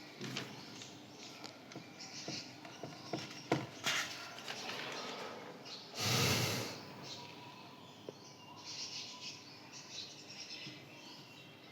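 Pen or marker writing, scratching and squeaking in short strokes with small clicks and taps, and one louder rushing noise lasting just under a second about six seconds in.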